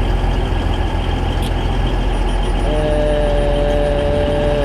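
Diesel multiple-unit train engines running at a station platform, a steady low rumble. About two-thirds of the way in, a steady tone on two notes starts and holds.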